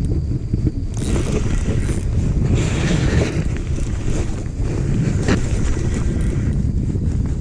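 Wind buffeting the microphone on a kayak on open water, a steady low rumble, with a few light ticks and knocks.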